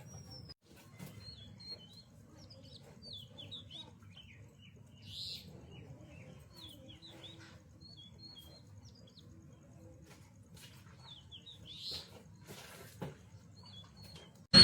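Birds chirping faintly: many short high chirps and twitters scattered throughout, a couple of them louder about five and twelve seconds in, over a low background rumble.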